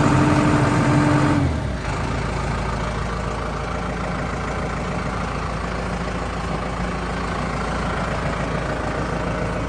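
Case JXU105 tractor's diesel engine running at raised revs, then throttled back about a second and a half in to a steady idle.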